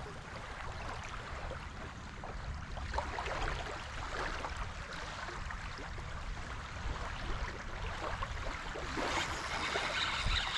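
Wind buffeting the microphone in a steady low rumble, with small waves lapping and splashing at the water's edge.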